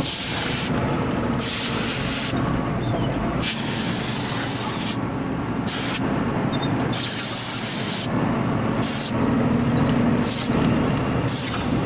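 Compressed air hissing from a truck's air line in repeated blasts of about a second each, switched on and off, over the steady running of the truck's engine.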